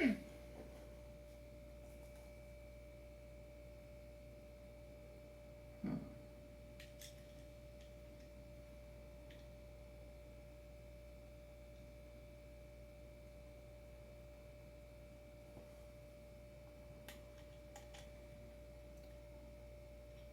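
A steady thin hum under a quiet room, with a few small knocks and clicks of hand tools and hardware being handled; one louder knock about six seconds in, then faint scattered clicks.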